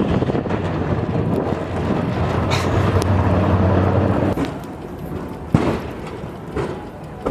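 Vehicle engine running steadily under a noisy haze, with a few sharp knocks; the engine sound drops away about four seconds in.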